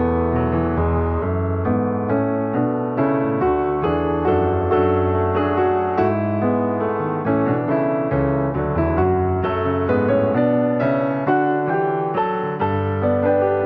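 Background piano music: a steady flow of struck notes over low bass notes.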